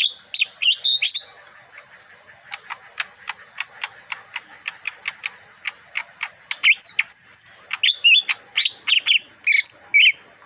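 Small caged green songbird singing a continuous run: quick warbling chirps at first, then a fast series of short ticking notes, about five a second, then varied chirped phrases again from a little past the middle.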